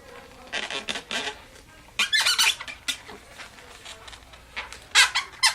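Latex modelling balloons squeaking as they are rubbed and handled, in three short bouts of squeaks.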